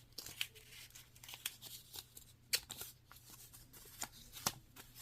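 Paper being handled: soft rustling and crinkling with scattered light clicks, as a cut paper strip is bent and looped over the fingers.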